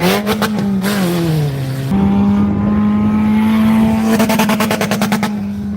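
Stock car engines running hard on a race track, the engine note rising and falling with the throttle and then held steady for the last few seconds.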